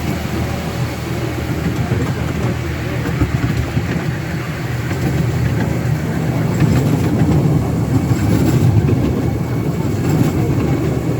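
Miniature railway train running along its track, a steady low rumble with occasional sharp clicks.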